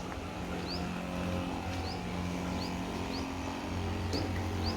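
Small engine running steadily, as a power sprayer does while spraying insecticide against mosquitoes and flies. A short, high, rising chirp repeats about once a second over it.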